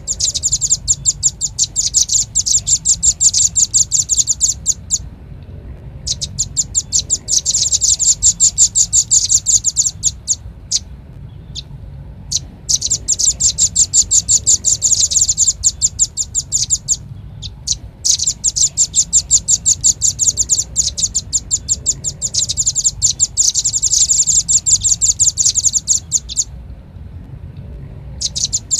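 Velvet-fronted nuthatch (rambatan paruh merah) calling in rapid trills of sharp, high chirps, about ten a second, in bouts of several seconds with short pauses between. It is a recorded lure call, with a faint low hum underneath.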